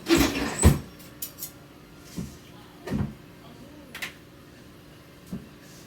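Kitchen utensils clattering: a burst of knocks and clinks of spoons and dishes at the start, then several single lighter clinks and knocks.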